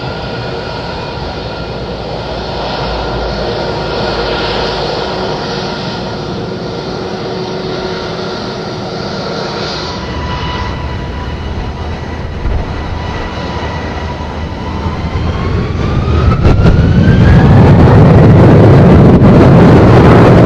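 Airbus A321-231's IAE V2500 turbofan engines running with a steady whine. Then, from about three-quarters of the way in, they spool up: the whine rises in pitch and a loud, deep rumble builds as thrust is increased.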